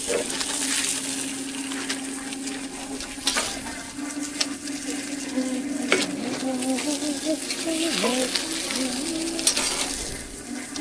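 Food sizzling on a hot street-food griddle, an even hiss throughout, with several sharp metal clicks and scrapes of a spatula and a steady low hum underneath.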